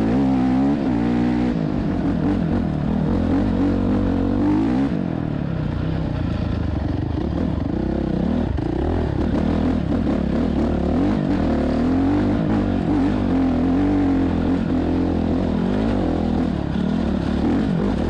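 Motorcycle engine running under way, its pitch rising and falling repeatedly as it accelerates and eases off.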